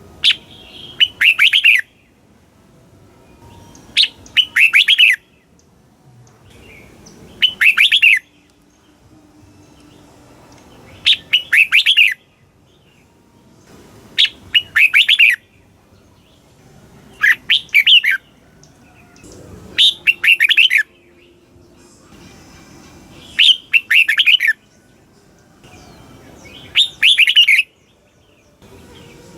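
Red-whiskered bulbul singing: the same short, rapid phrase of chirping notes, about a second long, repeated nine times, roughly every three seconds. It is recorded song of the kind played to rouse caged bulbuls.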